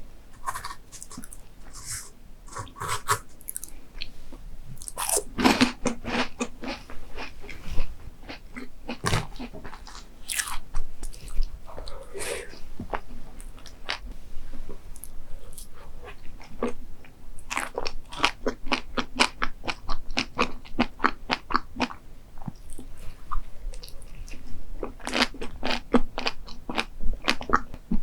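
A person eating crunchy food close to the microphone: crisp bites and crunchy chewing in clusters, with short pauses between.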